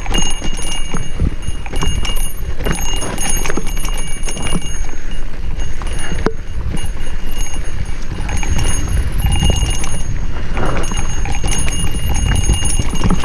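Wind buffeting the microphone while a mountain bike rides down rough singletrack, with frequent irregular knocks and rattles from the bike jolting over the trail.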